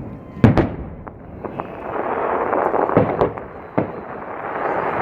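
Aerial fireworks shells bursting: a pair of sharp bangs about half a second in and a cluster of three around three seconds in. A denser steady noise swells between them.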